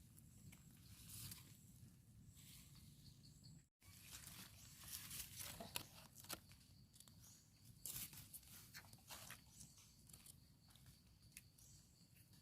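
Faint rustling and scattered crackles of hands and feet moving through leaf litter and undergrowth, with a brief cut in the sound about four seconds in.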